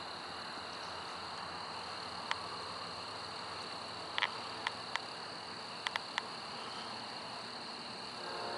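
Steady chorus of night insects, a continuous high trill, with a few sharp clicks scattered through the middle. Near the end a distant freight train starts to be heard and the level swells.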